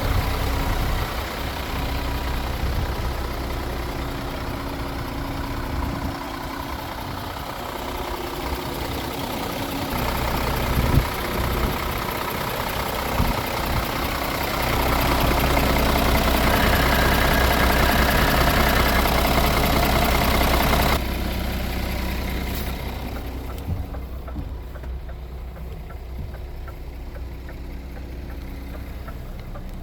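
Scania R450 truck's six-cylinder diesel engine idling with a steady low hum. Past the middle it runs louder for several seconds, then drops off abruptly about two-thirds of the way in and carries on more quietly.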